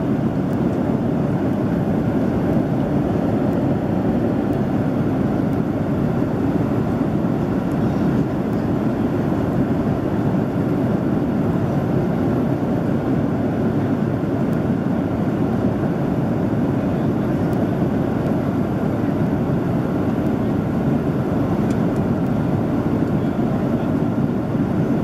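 Steady roar of a Boeing 767-300ER in flight, heard inside the passenger cabin: an even rushing of engine and airflow noise with no change in level.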